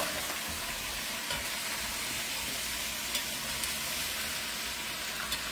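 Sliced potatoes frying in oil in a pan, a steady sizzle, with a few faint clicks as a spoon stirs them.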